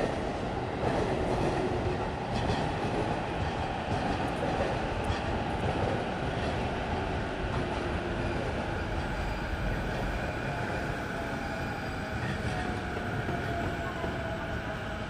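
Train running past on the tracks: a steady rumble of wheels on rail, with faint thin tones drifting slightly lower over the passage.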